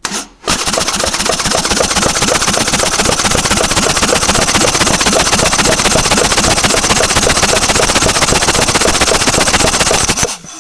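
Harley-Davidson Sportster 1200S air-cooled V-twin starting up about half a second in, running steadily, then switched off near the end. It carries the abnormal mechanical noise the owner first put down to the cams, which teardown traced to the crankshaft.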